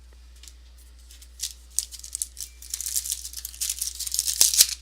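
Trading cards being handled and flicked through by hand: a quiet first second, then a run of quick dry rustles and clicks that grows denser toward the end.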